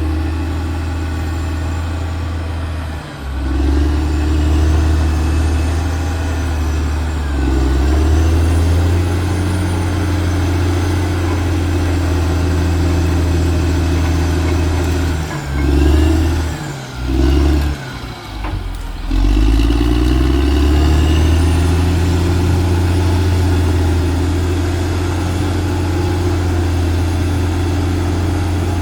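Caterpillar D6R XL bulldozer's diesel engine working under changing load. Its note shifts about three and seven seconds in, surges and drops several times over a few seconds past the middle, then settles into steady hard running.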